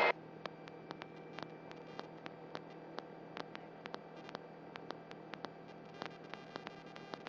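Faint steady electrical hum and static on a radio audio feed between transmissions, with irregular soft clicks scattered throughout.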